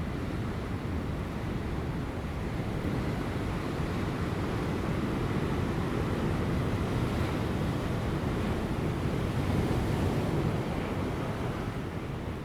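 Ocean surf breaking on rocks, a continuous deep wash of water that swells to a peak past the middle and eases near the end, with light wind.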